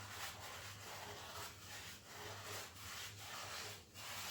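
Cheap paintbrush scrubbing SBR primer onto a self-levelled floor patch with old tile adhesive on it: a faint, rhythmic bristle scrub of back-and-forth strokes, about two a second.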